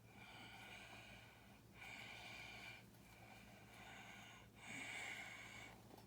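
Faint nasal breathing close to the microphone: a hushed, slightly whistly breath in and out, in stretches of about a second or so, one after another.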